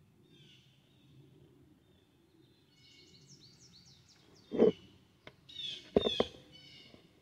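Small songbirds calling, with a quick run of rising chirps about three seconds in. A few sharp knocks, like bumps on the recording device, come a little past the middle and again about a second later, and these are the loudest sounds.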